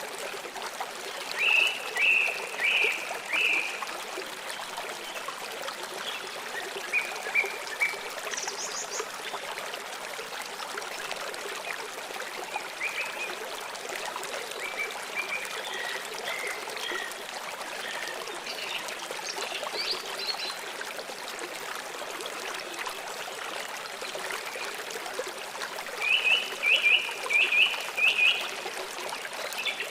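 A stream flowing steadily, with birds chirping over it. A bird gives a run of about four loud, quick notes about two seconds in and again near the end, with scattered softer chirps in between.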